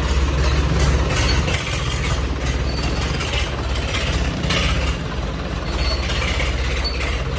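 Tractor diesel engine running steadily with a deep rumble.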